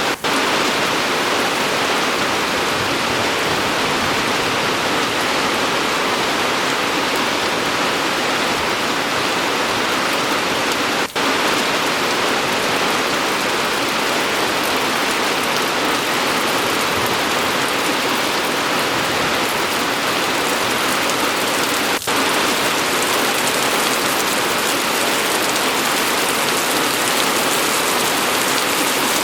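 Steady rain falling, a dense, even hiss of many drops on surfaces. The level dips for an instant twice, about eleven seconds apart.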